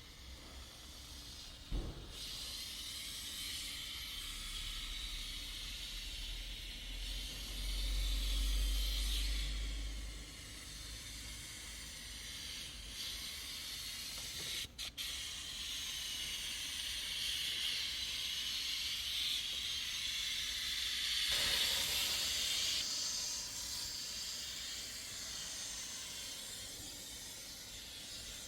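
A steady spraying hiss from a cleaning nozzle. It swells louder about a third of the way in and again later, with a single sharp knock about two seconds in.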